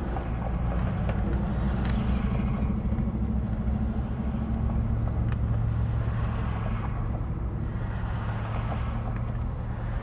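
Steady low hum of an idling car engine, with scattered light clicks and rustles from handling takeout food and utensils.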